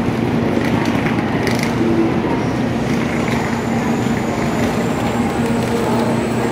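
Steady hum of a stationary N700-series Shinkansen at the platform, with the footsteps and rolling suitcase wheels of passengers getting off.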